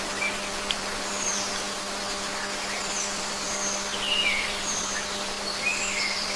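Small birds giving short high chirps, several scattered calls, over a steady hiss and a low even hum.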